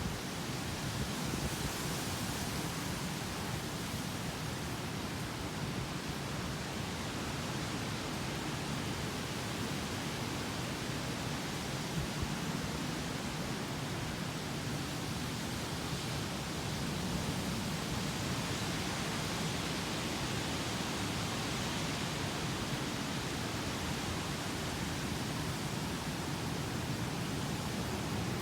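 Typhoon wind and rain making a steady, unbroken rushing noise.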